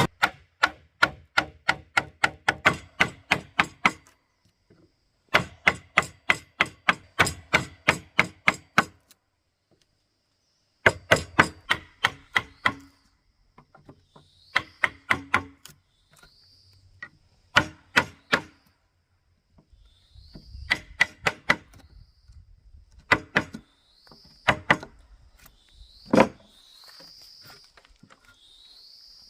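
A hand tool striking wood in fast runs of sharp blows, about five a second, each run lasting a few seconds; in the second half the blows come slower and singly.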